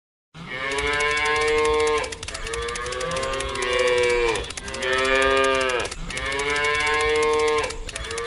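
Cattle mooing: about four long moos in a row, one straight after another, each rising and then falling away in pitch.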